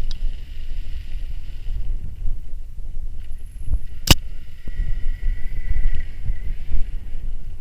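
Electric mountain bike on the move: constant low rumble and wind buffeting on the microphone, over a steady high whine from the electric drive. A sharp knock comes about four seconds in.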